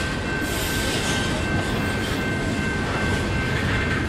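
Freight train rolling past: a steady low rumble of cars and wheels, with a thin, steady high-pitched wheel squeal over it.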